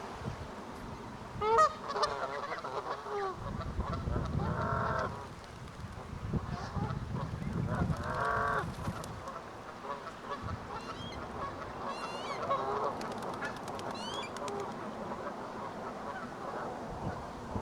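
Canada geese honking, a run of calls with two strong honks about four and eight seconds in, mixed with higher, quickly bending calls from other birds.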